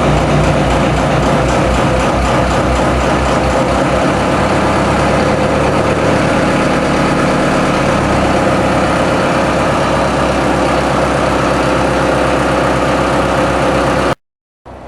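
TDME-490 four-cylinder marine diesel heard inside the boat, running loudly and coming up from idle toward 1000 rpm about four to six seconds in. Near the end the sound cuts off abruptly and comes back quieter.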